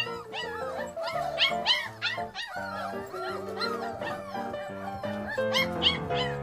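A dog giving short, high calls that rise and fall, several a second, in two runs: about half a second in and again near the end. Upbeat background music plays throughout.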